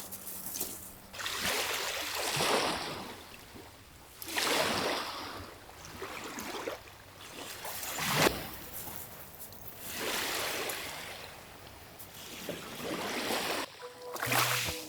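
Small lake waves washing onto the shore, each swell rising and falling away every two to three seconds. Music comes in near the end.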